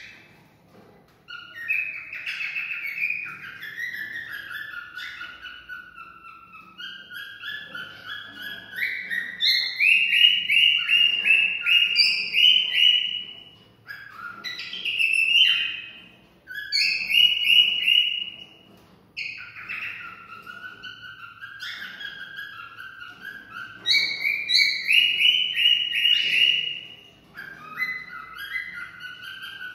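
Cockatiel whistling and singing its courtship song: phrases of quick, chirpy whistled notes that step up and down in pitch, separated by short pauses.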